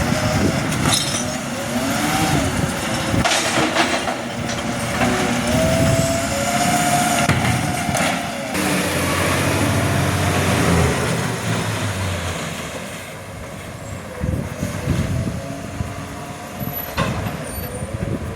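Garbage truck working at close range: engine running with a whine that rises and falls in pitch, and several sharp knocks and clanks in the first half.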